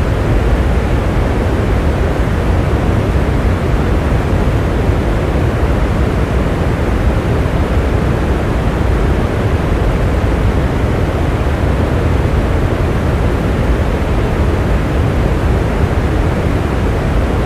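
Steady rain, an even rushing noise with most of its weight low down and no separate drops, claps or changes standing out.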